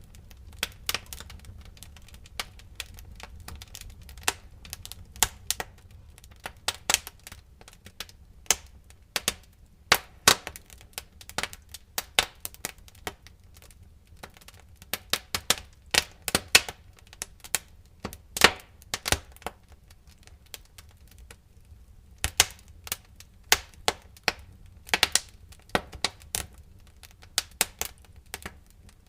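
Wood fire crackling in a fireplace: irregular sharp pops and snaps, coming in quick clusters at times, over a low steady rumble of the flames.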